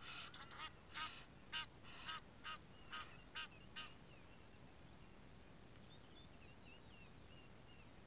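A bird calling in a quick series of about nine loud calls, roughly two a second, stopping about four seconds in; faint small-bird chirps follow near the end.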